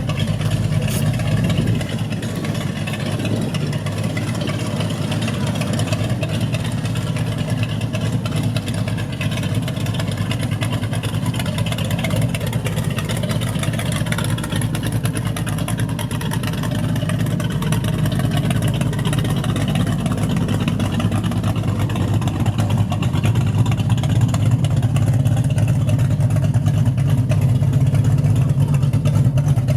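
Car audio subwoofers playing heavy bass at high volume, a dense low rumble that grows louder about two-thirds of the way through.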